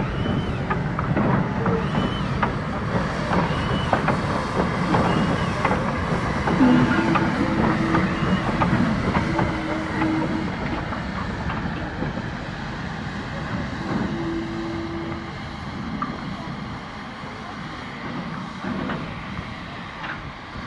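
A train running along the line, its wheels clicking over the rail joints and the carriages rattling, growing fainter towards the end.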